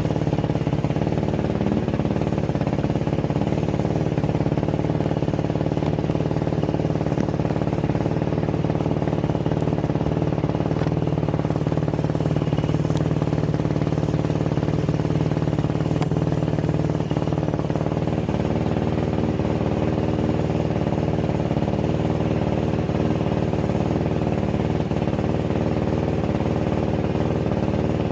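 Yamaha YFZ450 quad's carbureted single-cylinder four-stroke engine running steadily at a constant, idle-like speed, with no revving.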